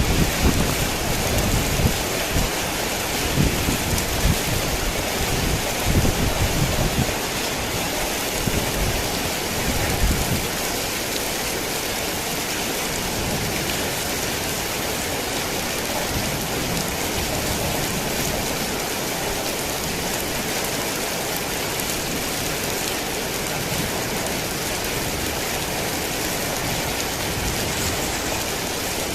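Heavy rain falling steadily, with low rumbles of thunder during the first third that die away about ten seconds in.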